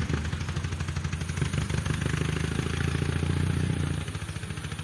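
Dnepr 12 sidecar motorcycle's flat-twin engine running with a fast, even firing beat, dropping in level about four seconds in.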